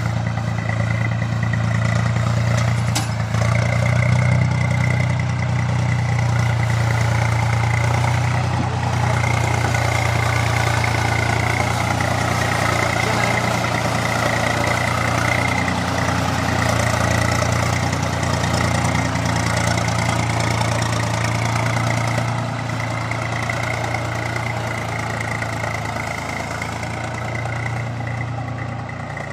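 Swaraj 735 tractor's three-cylinder diesel engine running steadily with a deep 'dep dep' beat, not the usual Swaraj sound: the owner thinks the sound is escaping outward. A thin steady whine sits above the engine note, and the level eases a little near the end.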